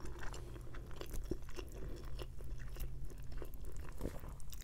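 Close-miked chewing of a mouthful of roasted chicken, with many small wet mouth clicks and smacks.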